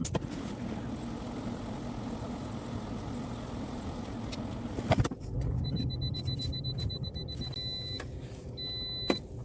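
Car running, heard from inside the cabin as a steady low rumble, with a sharp knock about five seconds in. After the knock a thin high tone sounds on and off.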